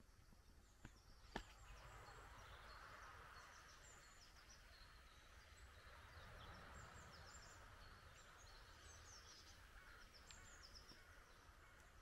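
Faint twittering of small birds, many short high chirps scattered throughout, over a low steady background hiss. One sharp click about a second and a half in.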